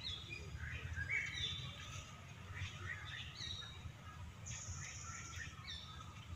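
Birds chirping: scattered short, high calls and twitters with a few brief whistled notes, over a low steady rumble.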